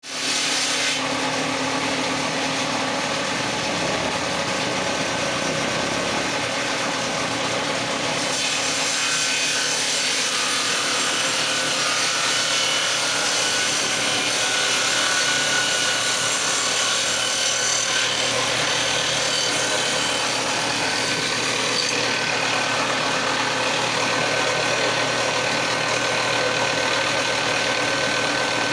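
Power tool cutting into the wood of a door jamb, running steadily with a continuous hiss and no pauses.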